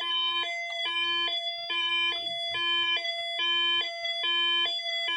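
Electronic toy siren of a 1989 Hess toy fire truck, a buzzy two-tone hi-lo wail alternating between a higher and a lower pitch, each held a little under half a second.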